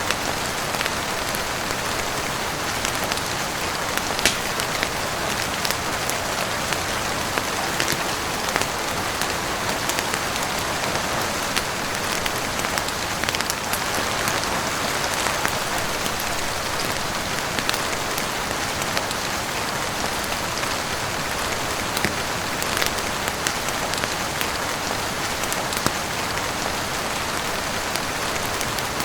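Heavy rain falling steadily, with scattered sharp pops and crackles from a wood fire.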